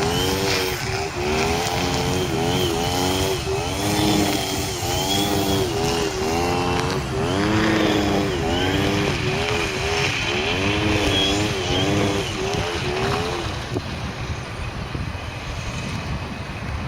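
Whine of a Dynam Cessna RC model plane's motor, its pitch swooping up and down about once a second, then fading near the end as the plane goes around after an aborted landing.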